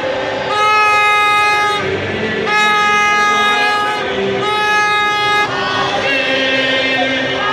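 Crowd noise with a horn sounding three long steady blasts of a second or so each, then, a little past halfway, the crowd singing and chanting.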